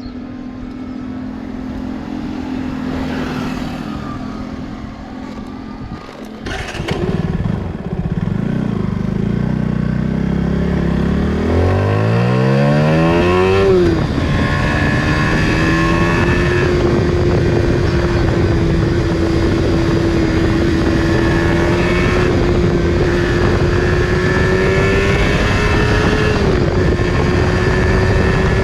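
Yamaha R15 V3's 155 cc single-cylinder engine through its stock exhaust, running steadily at first. About twelve seconds in it revs up sharply under acceleration, drops back at a shift about two seconds later, then holds a steady high-revving drone with a brief dip near the end.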